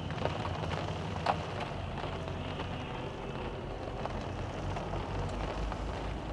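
Steady rain with scattered drops ticking, one a little louder about a second in, over a low rumble of storm wind.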